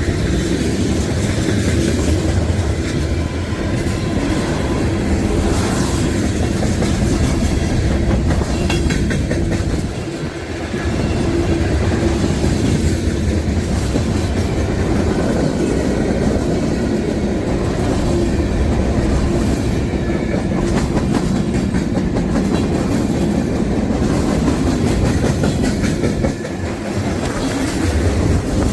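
A train rolling past, its cars making a steady heavy rumble with rapid clicking of wheels over the rails. The rumble briefly drops about ten seconds in and again near the end.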